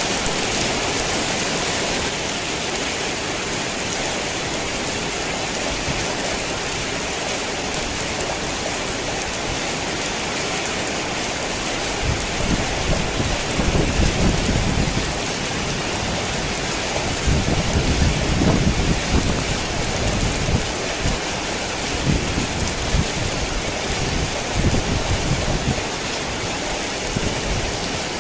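Heavy rain falling steadily, with low rolling thunder rumbling in several swells from about halfway through.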